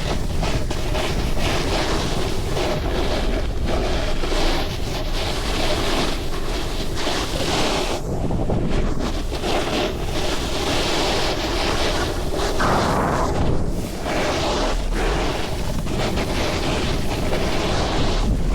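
Loud wind noise on the microphone, a steady rush that swells and eases.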